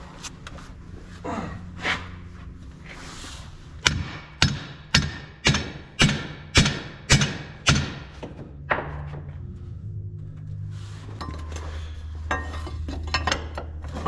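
Hammer blows on steel during a track chain repair: a couple of scattered knocks, then a steady run of about eight sharp strikes, roughly two a second, in the middle, with a few lighter clanks near the end.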